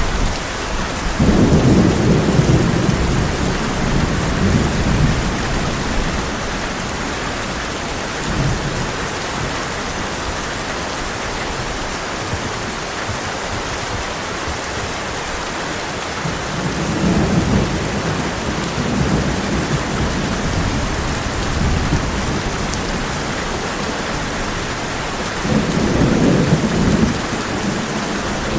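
Heavy rain drumming steadily on a tin roof, with rolls of thunder rumbling three times: near the start, about midway, and again near the end.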